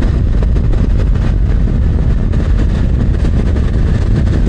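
Riding noise from a Yamaha MT-09 motorcycle under way: a steady low rumble of wind buffeting the microphone mixed with engine and road noise.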